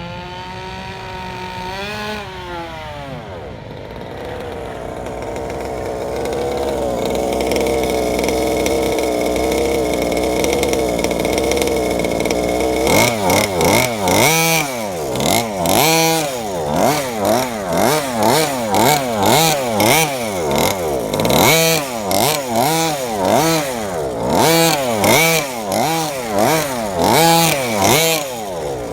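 32cc Rovan two-stroke gas engine of a 1/5-scale Baja 5b RC car running during break-in. It revs up briefly near the start, then holds a steady middle speed. From about halfway it is blipped over and over, its pitch rising and falling about once a second.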